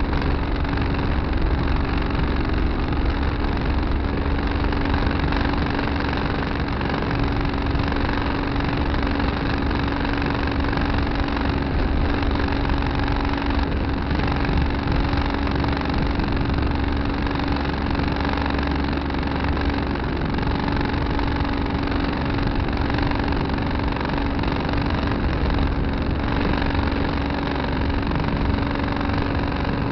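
Tractor engine running steadily, with a constant low drone and a steady hum.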